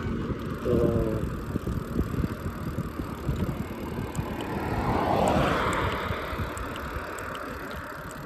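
Wind rumbling on the microphone and road noise from a moving ride, with a vehicle swelling and fading as it passes about five seconds in. A brief pitched sound comes about a second in.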